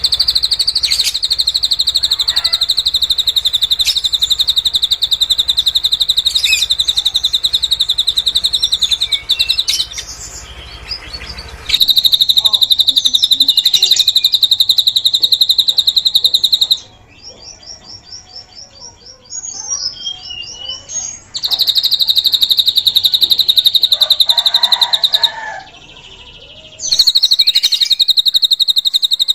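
A drongo (srigunting) singing its 'cililin' fill: long runs of a very fast, high trill of repeated chirps, broken three times by short pauses that carry softer, varied twitters.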